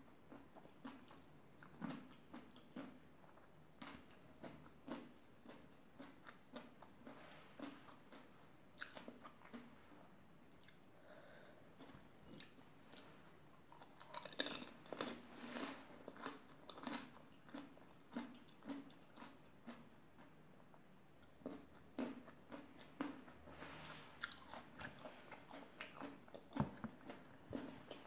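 Close-up chewing of pani puri: crisp, hollow puri shells filled with spiced water crunching and being chewed. A fresh flurry of crunching comes about halfway through as another whole puri goes into the mouth, and another flurry near the end.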